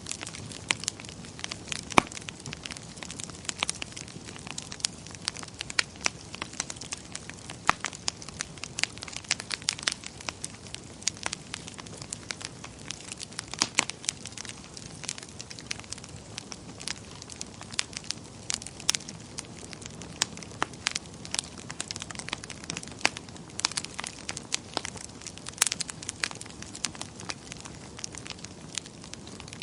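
Wood fire crackling in a fireplace: irregular sharp pops and snaps over a steady low hiss of burning.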